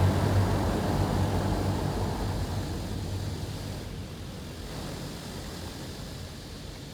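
High-pressure water spray of a Mark VII ChoiceWash XT touch-free car wash hitting the car, a steady hiss over a low hum, fading gradually away through the few seconds.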